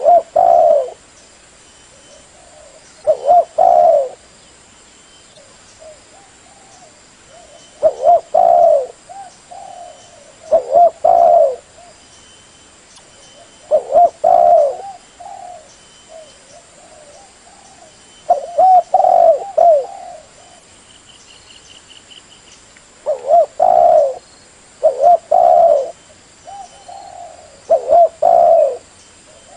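Spotted dove (tekukur) cooing: phrases of low, hollow coos repeated every few seconds, the kind of call used to lure other spotted doves.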